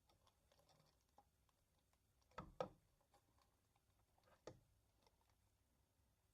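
Near silence with a few faint clicks and knocks, the loudest two close together about two and a half seconds in and another a couple of seconds later; no motor is running.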